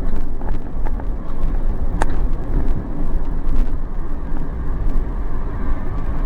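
A car driving slowly, with a steady low rumble of engine and road noise and a sharp click about two seconds in.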